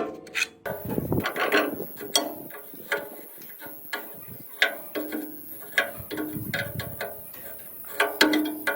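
Irregular metallic clicks and knocks of hand tools working on machine parts, some of them ringing briefly.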